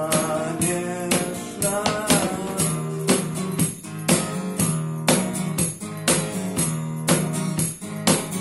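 Live acoustic song: the sung line ends about two seconds in, then an instrumental passage of acoustic guitar chords over a steady cajon beat.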